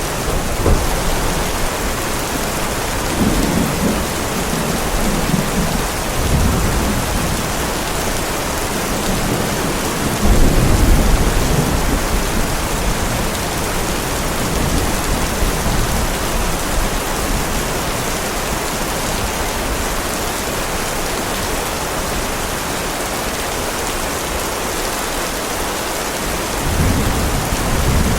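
Heavy, steady rain with rolls of low thunder rumbling through it, the loudest about ten seconds in and another starting near the end.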